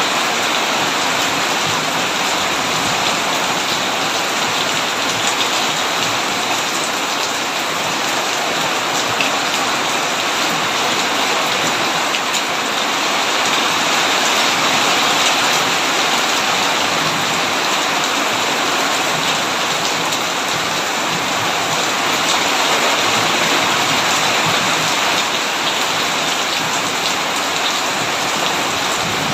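Heavy rain falling steadily on a tin roof, an even hiss with no change in strength.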